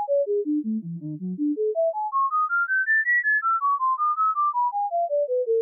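Electronic beeping: a quick run of pure single tones, about six a second, stepping down to a low pitch, climbing to a high peak about three seconds in, then stepping back down.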